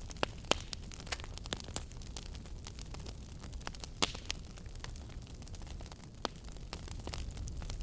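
Fireplace fire crackling: sharp pops and snaps at irregular intervals over a steady low rumble of burning flames, with the loudest pop about four seconds in.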